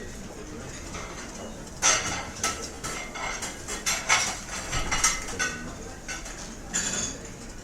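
Restaurant clatter: cutlery and dishes clinking in a busy room, in quick runs of sharp ringing clinks over a steady murmur.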